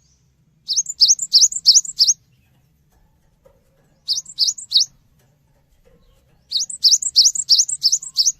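Cinereous tit (gelatik batu) singing: three phrases of quickly repeated, high, rising notes, about four a second, the first and last phrases longer and the middle one short.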